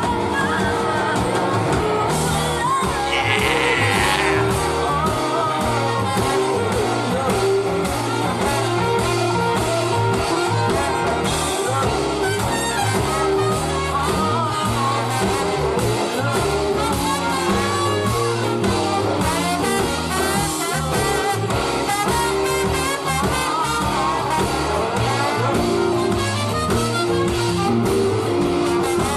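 Live band music with a young girl singing over it, guitar and horns in the band.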